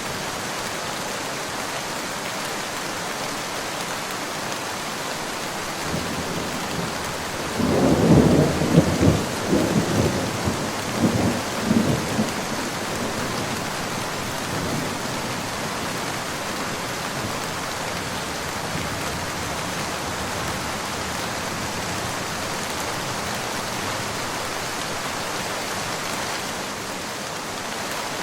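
Steady rain falling, with a thunderclap about seven seconds in that rumbles on for around five seconds in several loud peaks before fading back under the rain.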